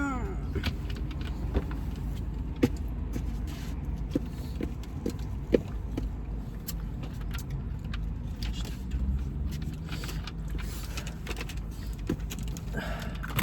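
Steady low rumble of a car heard from inside the cabin, likely the engine idling, with scattered small clicks and knocks on top.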